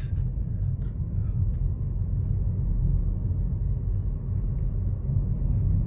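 Car driving along a road, heard from inside the cabin: a steady low rumble of tyre and engine noise.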